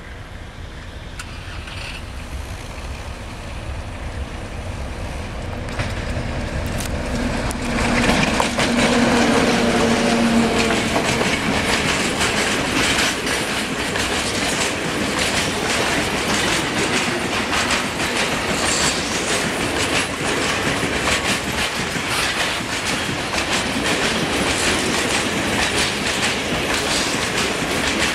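An Electroputere LDE 060-DA Sulzer-engined diesel-electric locomotive approaches and gets steadily louder, passing close about eight seconds in. A long string of loaded tank wagons then rolls past with a continuous clickety-clack of wheels over the rail joints.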